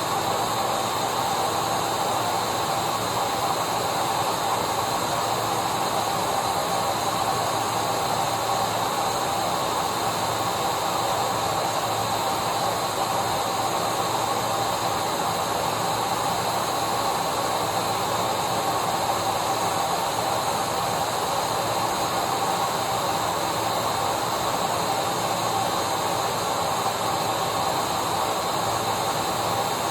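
Vacuum cleaner running steadily: an even motor whine and rush of air with no change in pitch or level.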